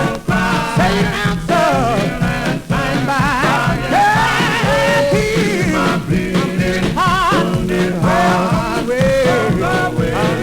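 1952 gospel vocal quartet recording played from a 78 rpm record: a lead voice sings with wide vibrato over held low harmony.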